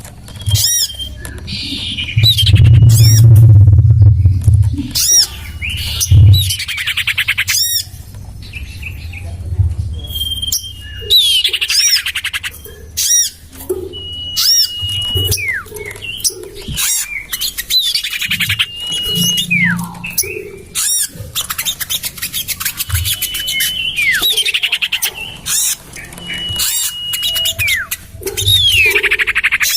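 Bird-lure recording of common iora (cipoh) calls. Harsh, scratchy calls, short level whistles and falling whistled notes repeat densely throughout. A low rumble sits under the calls in the first few seconds.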